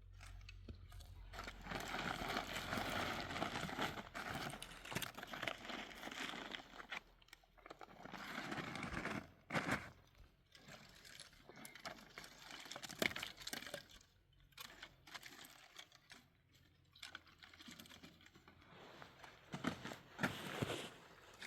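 Irregular rustling and crinkling handling noise, with a few sharp knocks scattered through it.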